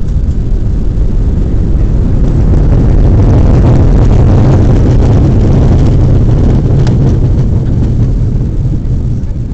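Airliner heard from inside the cabin on the landing roll: a loud rushing engine roar swells up over a couple of seconds, holds, then dies away near the end, the way reverse thrust sounds just after touchdown.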